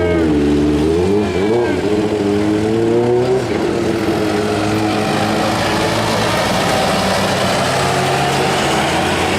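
A pulling lawn tractor's engine revving up and down a few times, then running at a steady, lower-pitched speed from about three and a half seconds in.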